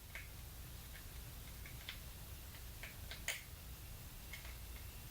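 Faint, irregular small clicks and ticks from driving a small screw into a plastic DC power socket and its cover by hand, with one louder click about three seconds in, over a steady low hum.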